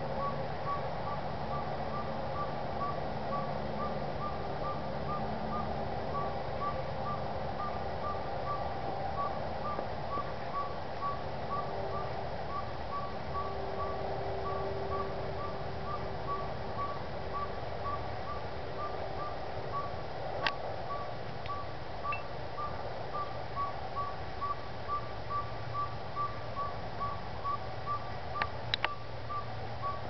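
A night-calling bird giving a long, even series of short whistled toots at one pitch, about two a second, without a break.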